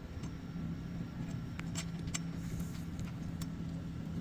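Steady low machine hum in the background, with a few sharp, light metallic clicks of bolts and tools being handled.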